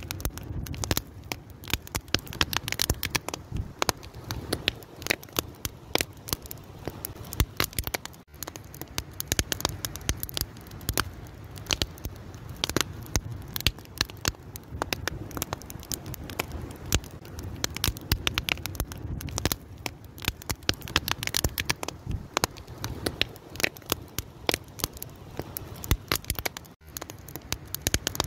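Fire crackling: a dense, irregular run of sharp pops and snaps over a low, steady rush of flames.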